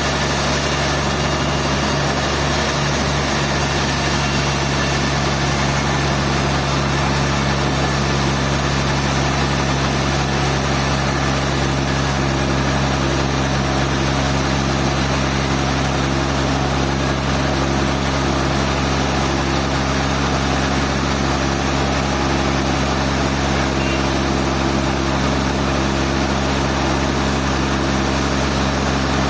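Sawmill machinery running steadily: a constant engine-like hum with several steady low tones that hold the same pitch and level throughout.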